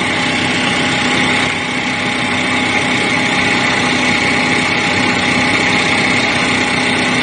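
2013 Chevy Malibu's 2.5-litre four-cylinder engine idling steadily, with an even whine over the running sound.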